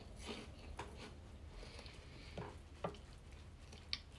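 Faint chewing of a puffed corn snack stick (Umaibo), with a handful of soft crunches and mouth clicks spread through it.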